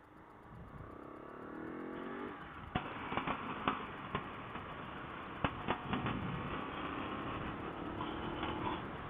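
Adventure motorcycle engine running on the road, its pitch rising as it accelerates for the first couple of seconds, then pulling more steadily. Sharp clicks and knocks come through several times from about three seconds in.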